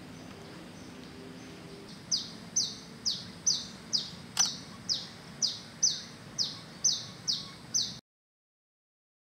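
A bird calling over and over, about two short, high, downward-sliding notes a second, starting about two seconds in over a low steady background. There is one sharp click midway, and everything cuts off suddenly near the end.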